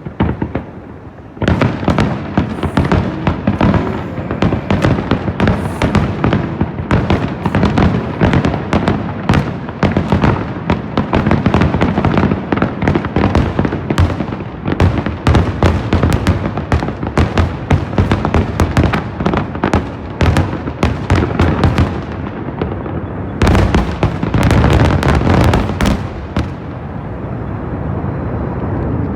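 Fireworks display: a dense, rapid barrage of aerial shells bursting and crackling, one bang after another, with a brief break before a final volley, then trailing off into a low rumble near the end.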